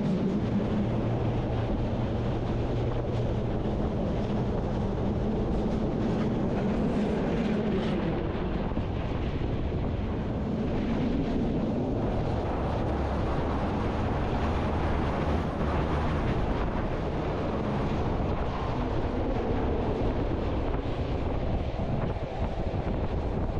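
Bernina Line train running, heard from an open observation carriage: a steady low rumble of the wheels on the rails with wind blowing on the microphone.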